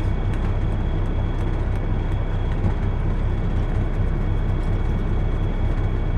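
Steady low rumble of a semi truck's idling diesel engine heard inside the cab, with a faint thin high whine and a few light clicks.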